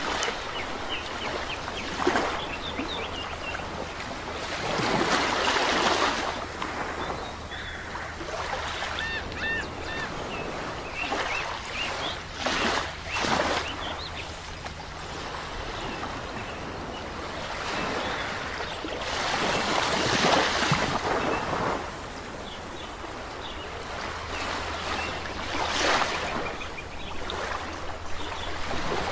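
Sea waves washing onto a shore, swelling and falling back about every six to seven seconds, with small birds chirping between the surges.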